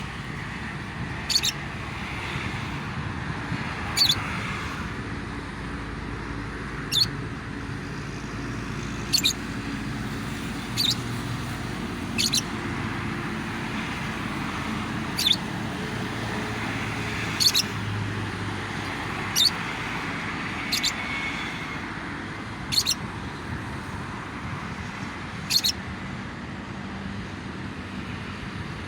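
Lovebird giving short, sharp, shrill chirps about every two seconds, about a dozen in all, over a steady rumble of road traffic.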